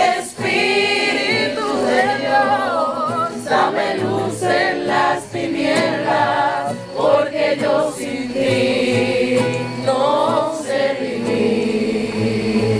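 A group of people singing a Spanish-language worship song together, voices holding and bending long notes.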